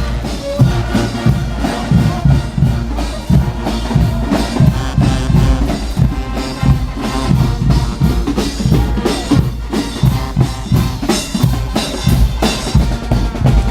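Carnival band music, a Guggenmusik-style brass-and-drum band playing loud. A driving beat of bass drum and snare sits under the horns.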